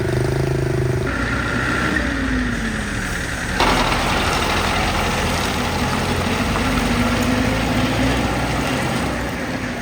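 Motor vehicle engine running steadily. Its tone changes about a second in, and it turns suddenly louder and noisier about three and a half seconds in.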